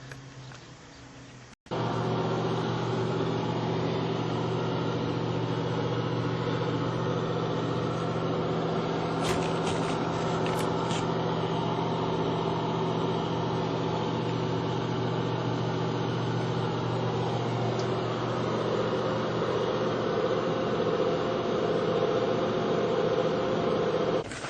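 A small motor running steadily with an even hum and hiss; it starts abruptly about a second and a half in, with a few faint clicks near the middle, and stops just before the end.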